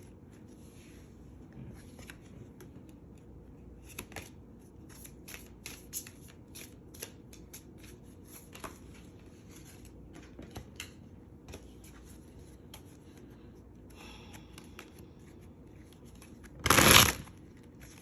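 Tarot cards being shuffled by hand: scattered soft clicks and rustles of cards sliding against each other. Near the end comes a louder brief rustle of the deck, about half a second long.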